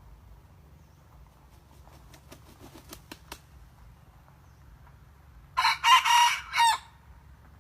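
A red junglefowl rooster crows once, a short, broken crow lasting about a second, a little over five seconds in. Before it there are a few faint clicks.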